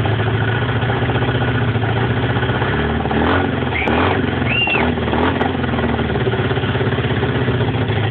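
MGB's rebuilt 1.8-litre B-series four-cylinder engine running steadily just after its first start following the rebuild. Its revs rise and fall briefly in the middle.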